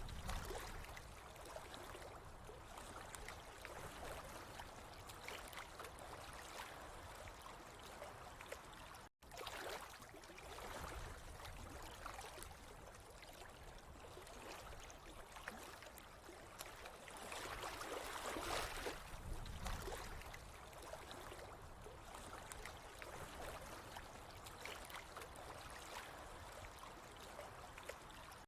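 Water flowing and trickling steadily, swelling and easing now and then, with a split-second break in the sound about nine seconds in.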